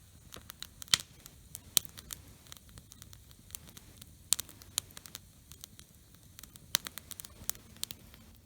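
Wood campfire crackling, with irregular sharp pops and snaps at uneven intervals.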